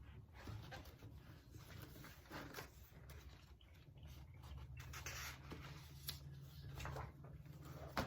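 Faint light scratching and scattered small taps of things being handled, over a low steady room hum.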